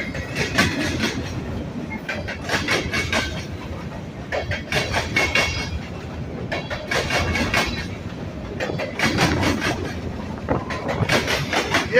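Train cars rolling past with a steady rumble, their wheels clacking over rail joints in clusters of sharp clicks every second or two.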